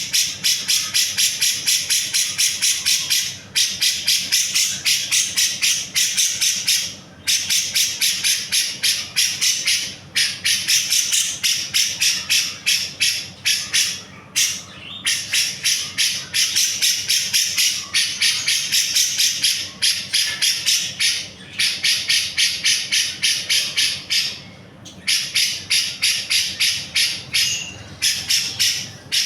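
Grey-cheeked bulbul (cucak jenggot) giving a fast, harsh, rasping chatter of several notes a second, in long bursts broken by short pauses.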